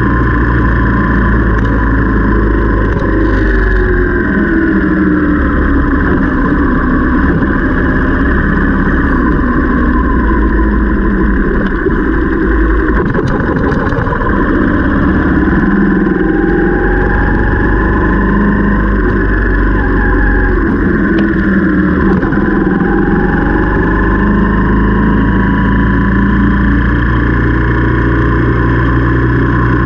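Motorcycle engine running while riding, its pitch falling and rising several times as the speed changes, over a heavy low rumble of wind on the microphone.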